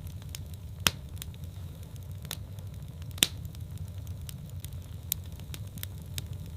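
Wood fire burning in a fireplace: a steady low rumble of the flames with scattered sharp crackles and pops, two pops much louder than the rest, about a second in and a little past three seconds in.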